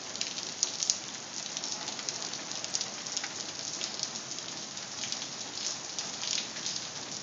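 Rain falling steadily, a constant hiss with scattered sharp ticks of drops hitting hard surfaces.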